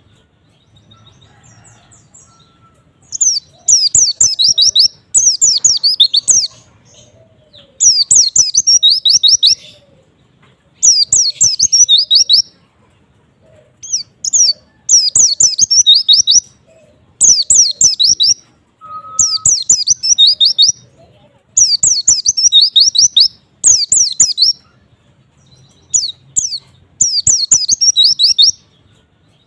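White-eye (pleci) singing: fast, high twittering phrases of quick down-slurred notes, each lasting a second or two and repeated about every two to three seconds with short pauses between.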